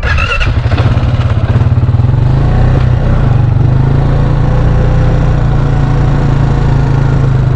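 A small engine running steadily close by at an even pitch, with a brief high yelp-like sound right at the start.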